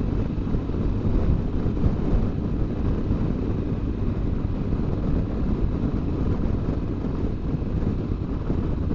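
A BMW R1200GS motorcycle under way at a steady speed: a steady low rush of wind on the microphone mixed with engine and road noise, with no change through the stretch.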